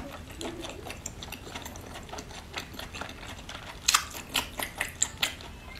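Close-miked mouth sounds of eating spicy octopus: rapid wet smacking and chewing clicks, with a louder run of sharp smacks about four seconds in.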